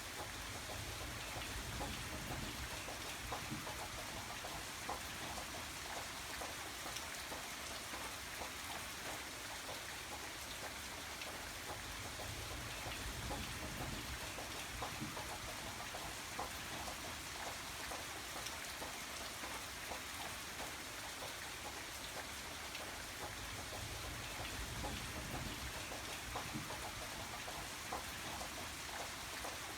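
Steady rain falling, a dense even hiss with many individual drops ticking on a surface, over a soft low rumble that swells now and then.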